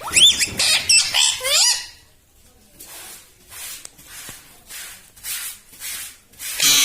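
Pet parrot calling: a few quick rising, whistled calls, then a run of short raspy, hissing squawks about twice a second, the last one the loudest.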